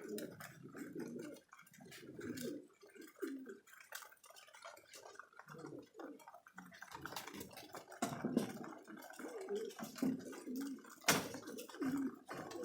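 Domestic pigeons cooing again and again, with scattered light clicks and one sharp click about eleven seconds in.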